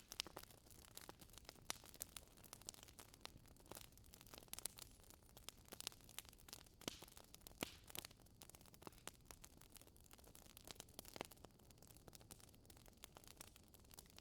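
Wood fire crackling in a fireplace: irregular sharp pops and snaps, several a second, over a faint low hiss.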